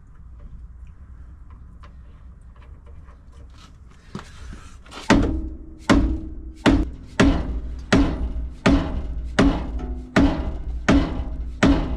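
Rubber mallet striking the pitman arm on a Ford F-250's steering gear, about ten sharp blows starting about four seconds in, roughly one every 0.7 s, each with a short ring from the steel, to knock the arm loose from the steering shaft.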